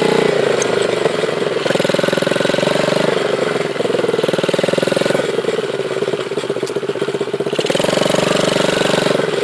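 Dirt bike engine running while being ridden, its pitch rising and falling several times as the throttle is opened and eased off.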